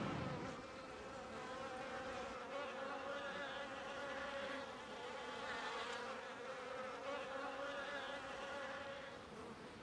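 An insect, such as a fly, buzzing steadily, fairly faint.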